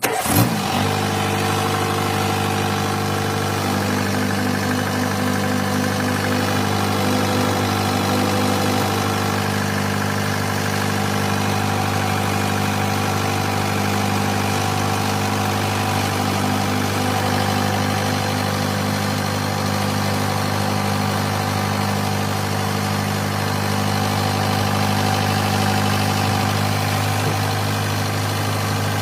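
Mahindra 475 tractor's diesel engine running steadily at an even speed, without revving. It cuts in abruptly at the very start.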